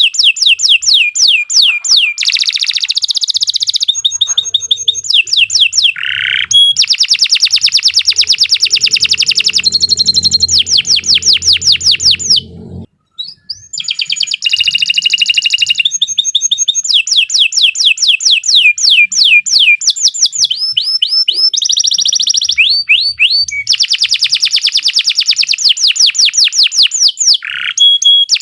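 Domestic canary singing a long, loud song of rapid trills, each phrase a fast run of repeated notes, switching from one trill type to the next, with a short pause about halfway.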